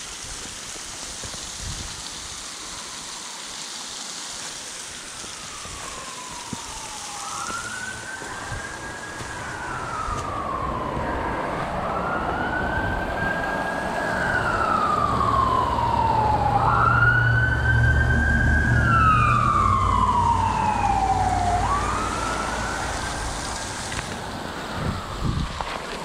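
An emergency vehicle's siren wailing, its pitch rising quickly and falling slowly about every four to five seconds. It grows louder to a peak about two-thirds of the way through, where the low rumble of the vehicle passing close is heard, then fades near the end.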